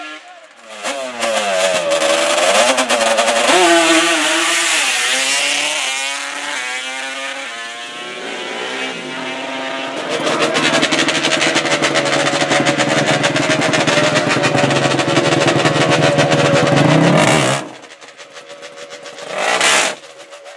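Drag-racing ATV engines revving hard, their pitch rising and falling repeatedly. Then comes a long full-throttle run of several seconds that cuts off suddenly, and one more short burst of engine noise near the end.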